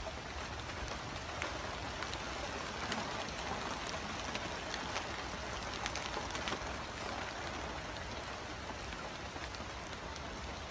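Rain falling steadily, an even patter with single drops ticking now and then.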